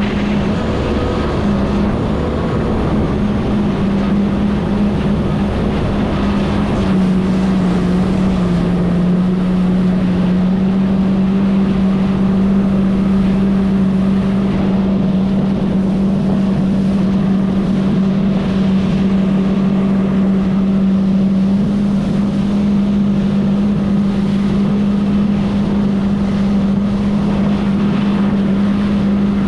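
Jet ski engine running steadily under throttle, its note dipping slightly about seven seconds in and then holding.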